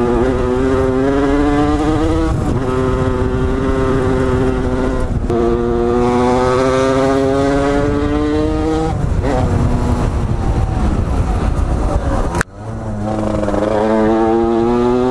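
Dirt bike engine accelerating through the gears: its pitch climbs steadily, then drops at each upshift, about 2.5, 5 and 9 seconds in. A sudden break comes near the end, and then it picks up and climbs again.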